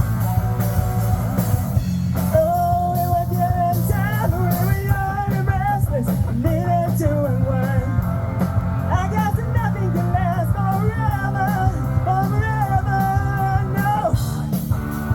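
Rock band playing live: a voice singing a wavering melody over guitar, bass and drums with a steady beat. The sung line stops about a second before the end while the band plays on.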